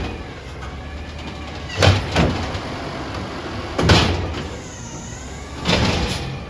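Natural-gas automated side-loader garbage truck emptying a cart: the engine stays at idle while the arm's hydraulics whine, and the cart bangs loudly against the truck, twice in quick succession about two seconds in, then again near four and six seconds.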